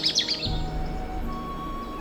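A bird's fast high trill cuts off about half a second in. Soft background music with sustained tones follows.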